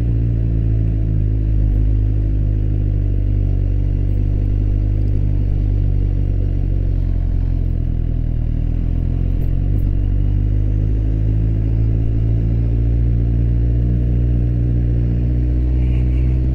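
Suzuki GSX-R 1000 K8's inline-four engine running steadily at low revs while the motorcycle cruises, heard from the rider's position. The revs ease off slightly about halfway through and pick up again.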